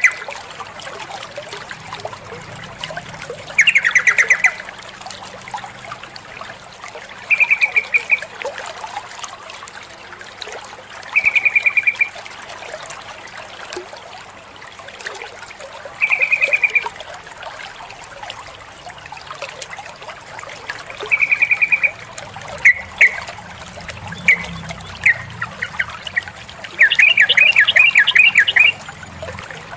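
Yellow-vented bulbul (trucukan) calling, presented as a female calling a male: short bubbling phrases of quick notes about every four seconds. Near the end the phrases come closer together, then one longer rapid run of notes.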